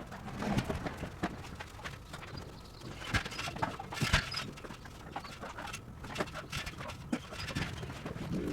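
Irregular knocks and clatter at an uneven pace, some louder than others, from hand demolition work on a prefab walk-in refrigerator.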